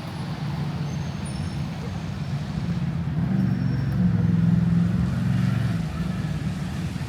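A motor vehicle's engine running close by, its low hum growing louder about three seconds in and easing off near the end, over street background noise.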